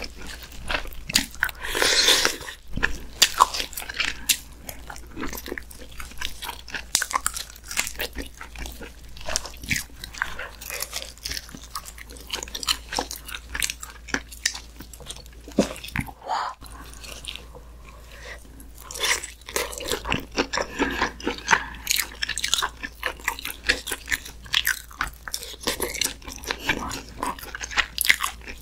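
Close-miked chewing and biting of braised muscovy duck meat eaten by hand: wet mouth clicks and smacks in irregular bursts, louder in places.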